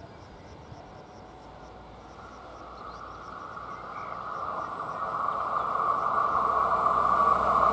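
A passenger train approaching along the track, its rolling noise growing steadily louder from about two seconds in.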